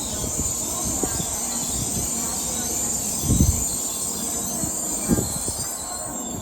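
Shinkansen train running along the platform, with a steady high-pitched hiss over a low rumble and two low thumps partway through.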